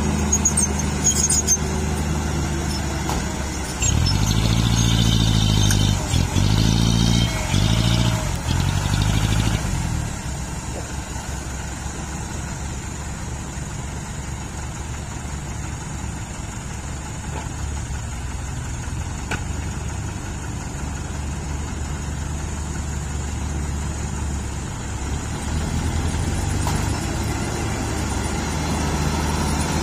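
Diesel dump truck engine running, revved up and down several times in quick succession over a few seconds, then settling back to a steady lower run that picks up slightly near the end.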